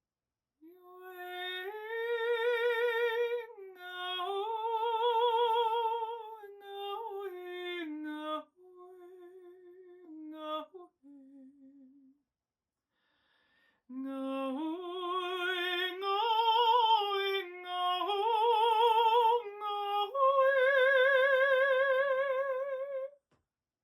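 A woman singing long held notes with a wide vibrato, stepping up and down between pitches in a free vocal improvisation. The singing breaks off briefly about halfway, then resumes on higher sustained notes.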